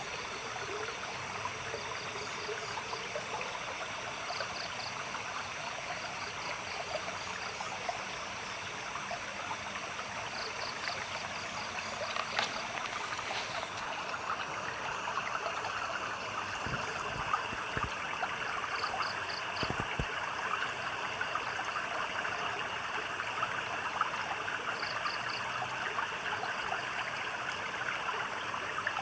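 Small stream trickling and babbling steadily over stones. Short high chirps in quick groups of three or four from a night creature come every few seconds above the water.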